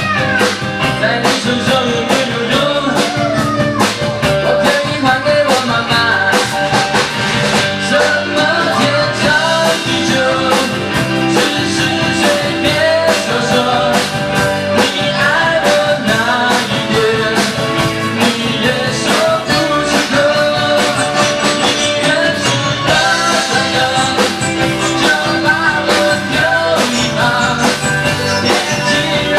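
Live rock band playing at full volume: a steady drum-kit beat under guitar and a wavering melody line.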